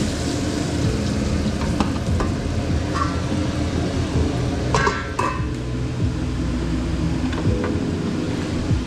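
Chuletón steak sizzling in a pan of butter and rosemary, with a few short metallic clinks of a utensil against the pan, the loudest pair about halfway through. A steady low hum runs underneath.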